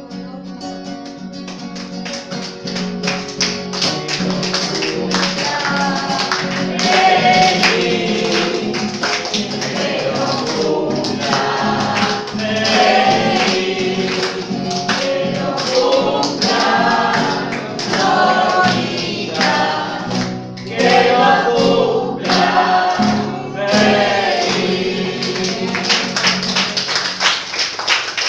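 A group of voices singing a song over steady sustained low accompaniment notes, with rhythmic handclaps keeping the beat. The singing comes in strongly about five seconds in.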